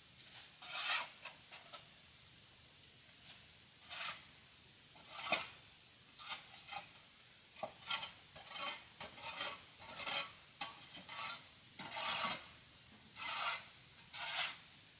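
Short scraping strokes coming one after another at an uneven pace, some brief and sharp, some longer.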